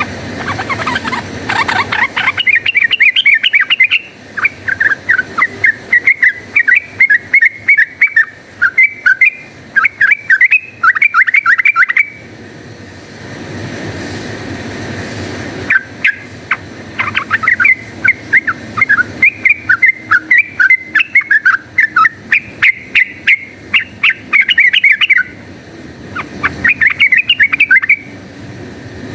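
Yellow-vented bulbul (trucukan) singing rapid runs of bubbly, chattering notes in its fast 'fighting' style. There are two long runs of about ten seconds each with a pause between, then a short burst near the end.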